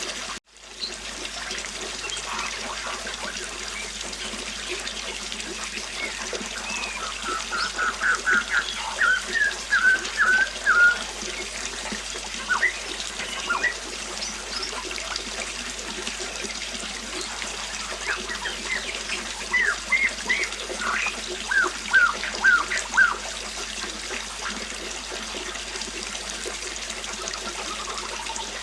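River water flowing and trickling steadily. A bird chirps in quick runs of notes twice, about a third of the way in and again about two-thirds through. The water cuts out for a moment just after the start.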